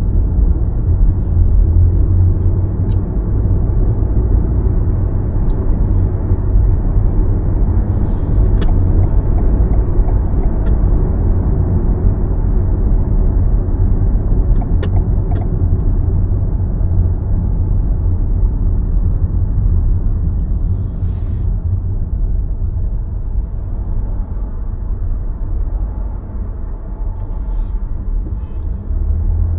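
A car driving on city roads: a steady low rumble of tyre and road noise, easing off slightly near the end, with a few faint ticks.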